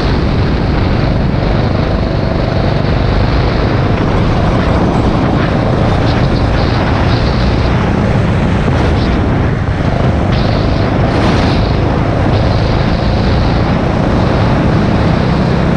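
Rental go-kart engine running on track under racing throttle, loud and steady throughout, mixed with heavy wind and road noise.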